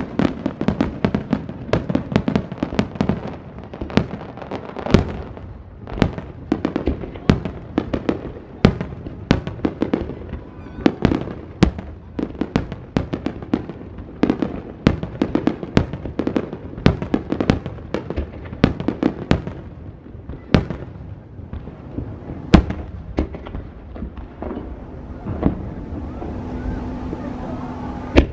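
Fireworks display: a dense barrage of aerial shell bursts, several sharp bangs a second, thinning out near the end.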